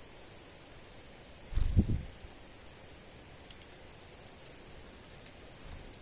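Small bird giving short, very high-pitched chirps that fall in pitch, about five scattered through, the one near the end the loudest. A low rumbling bump about two seconds in.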